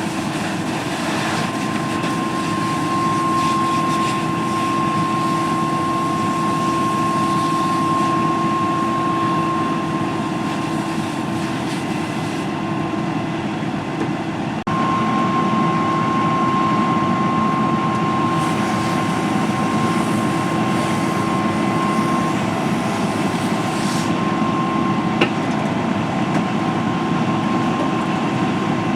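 A large vehicle's engine running steadily, with a constant droning whine over the rumble; the sound breaks off abruptly about halfway through and resumes slightly louder.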